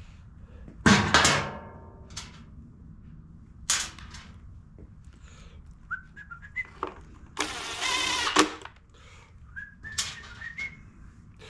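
Hand-tool work on a backpack blower's small cover as its screws go back in: a sharp clink about a second in and a lighter click later, then a power driver whirring for about a second. Faint, short whistled notes come in between.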